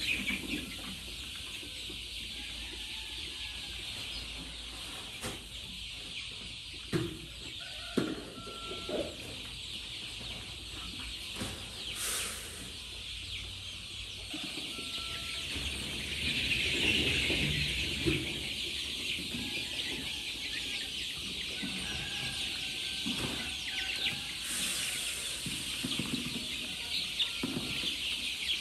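Chickens clucking over a steady high-pitched chatter, with a few sharp knocks about seven and eight seconds in.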